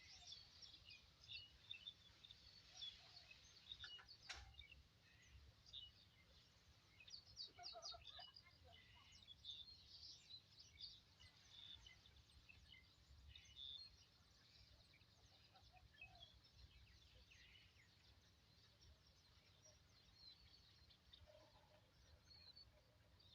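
Faint chirping of small birds, many short scattered calls, with one sharp click about four seconds in.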